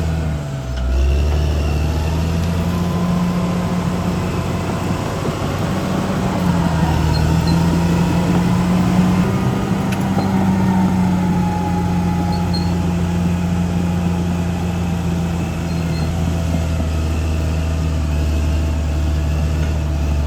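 Caterpillar D6R XL bulldozer's diesel engine running steadily. Its pitch dips briefly about a second in, then rises and falls as it works.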